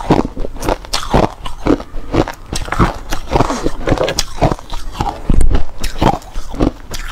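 A person biting and chewing hard clear ice close to the microphone: loud, irregular crunching and cracking, several sharp cracks a second.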